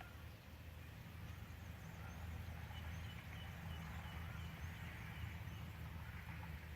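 Faint outdoor ambience over a steady low rumble. About halfway through a bird chirps a quick run of short repeated high notes, several a second.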